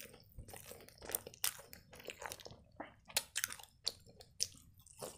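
A person chewing a bite of toasted pancake rolled around chicken filling: irregular crunchy, wet mouth clicks, with a few sharper ones along the way.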